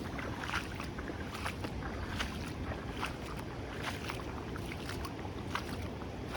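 Floodwater draining and flowing out of a flooded garden: a steady low rush with many short, irregular trickles and spatters.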